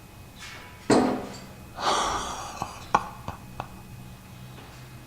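A bird striking a glass window pane: a sharp thump about a second in, then a short rushing sound and four light taps on the glass.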